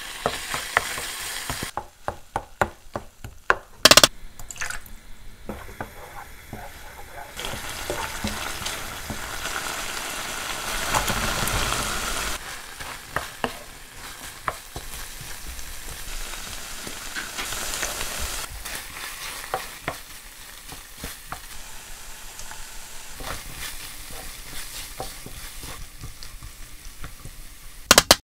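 Chicken tikka filling sizzling in a frying pan while a spoon stirs it, scraping and knocking against the pan. There is a run of sharp spoon clicks about two to four seconds in, then steady sizzling with scattered ticks.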